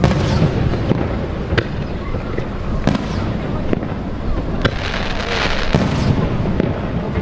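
Fireworks display: aerial shells bursting in sharp bangs about once a second over a low rumble, with a stretch of hiss about five seconds in.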